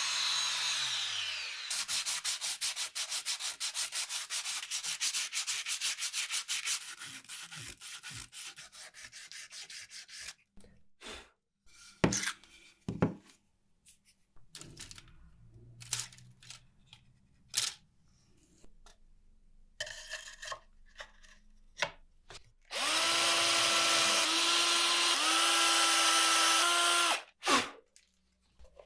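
Workshop work on wooden parts. A motor winds down at the start, then rapid rasping strokes of sanding or rubbing on wood fade away over several seconds. After scattered clicks and knocks of handling, a small power tool runs steadily for about four seconds near the end.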